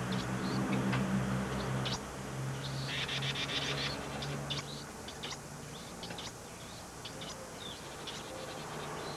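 Small songbirds chirping: scattered short, high cheeps, with a burst of rapid buzzy chatter about three seconds in. A low steady hum sits underneath and fades about halfway through.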